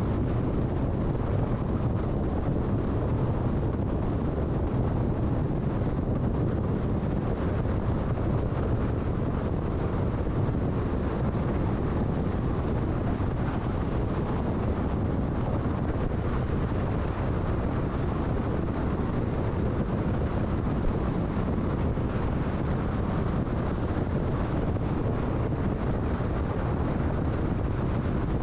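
Steady road and wind noise of a car cruising at freeway speed, an even low rumble with no changes.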